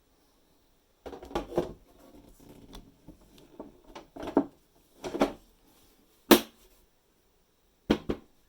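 Handling noises: an irregular run of knocks and clicks, with the sharpest click about six seconds in and a double knock near the end.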